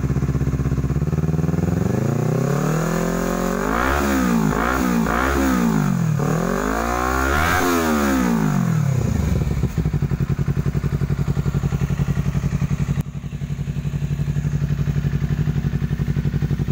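Honda CBR250RR engine through a Villan Tech1 aftermarket exhaust, idling, then revved in a run of quick throttle blips that rise and fall in pitch a few seconds in, before settling back to a steady idle.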